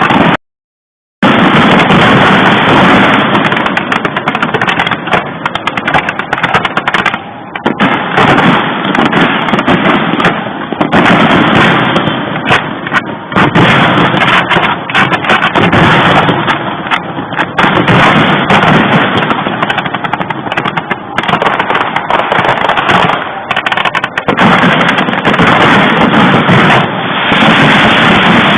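Fireworks going off in rapid, dense succession: a continuous, very loud crackle of many overlapping bangs. The sound drops out completely for about a second near the start.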